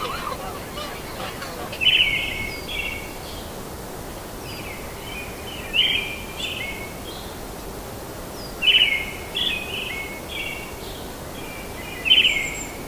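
Birds calling in short bursts of rapid chirps, a phrase every few seconds, over a steady hiss.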